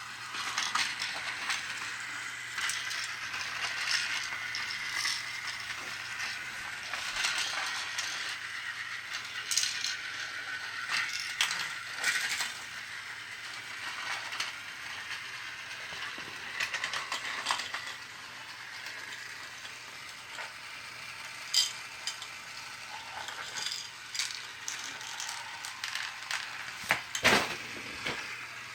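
Battery-operated toy truck play set running: its small electric motor and plastic gears whir steadily, with many clicks and rattles from the moving parts. The sharpest clacks come about two-thirds of the way in and near the end.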